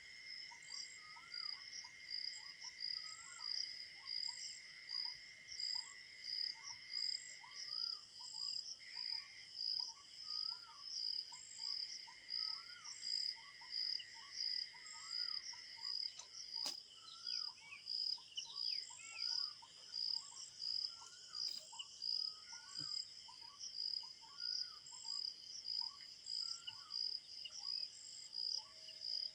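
Crickets chirping in a steady regular pulse, about two chirps a second, over a thin steady insect trill that drops out part way. Short rising bird calls repeat every half second or so throughout, and there is a single sharp click about two-thirds of the way through.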